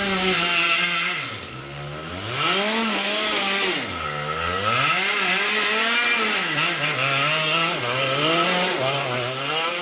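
Yamaha KT100S single-cylinder two-stroke kart engine revving up and down as the kart is driven, its pitch rising and dropping several times, with a dip in revs about two seconds in and again about four seconds in.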